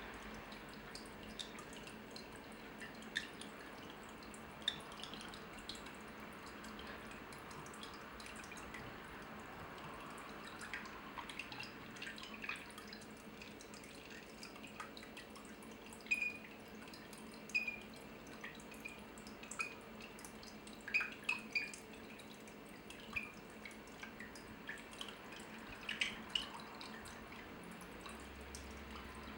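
Water dripping at irregular intervals, single drops plinking into water over a faint steady hiss; the drops come more often and louder in the second half.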